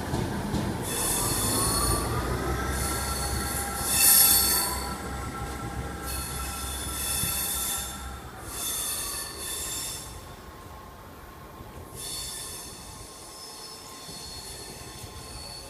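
Class 158 diesel multiple unit pulling away, with a whine that rises in pitch, holds, then drops, and intermittent high-pitched wheel squeal, growing fainter as the train moves off.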